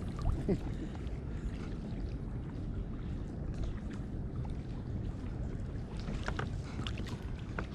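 Kayak being paddled through calm water: soft paddle splashes and drips with scattered light clicks, over a low rumble.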